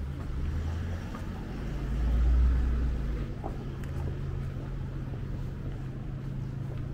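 A motor vehicle's engine running close by, over a steady low hum, swelling to its loudest about two and a half seconds in.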